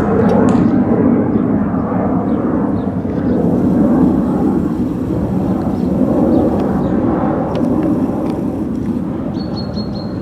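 Loud, steady low rumbling noise, with a few faint high bird chirps over it and a quick run of about five short high chirps near the end.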